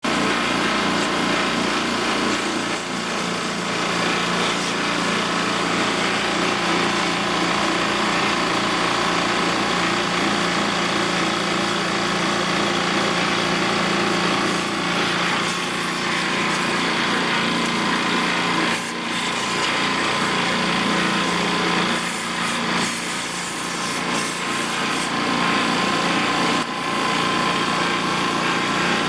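A small electric motor running steadily under a loud hiss, typical of the cleaning equipment used on an air conditioner, with a few brief dips.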